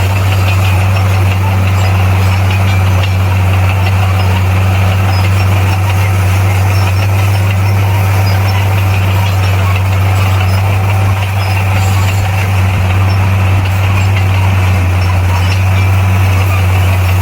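Heavy diesel engine of earthmoving machinery running at a constant speed: a loud, steady low drone that keeps the same pitch throughout.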